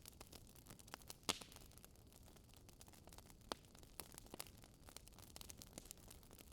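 Fire in a fireplace crackling softly: scattered small clicks over a faint hiss, with a sharper pop about a second in and another about halfway through.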